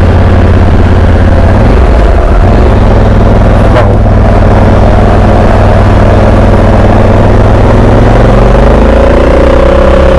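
Honda Africa Twin 1100's parallel-twin engine running steadily while under way, with loud wind noise over the microphone; the engine note rises near the end.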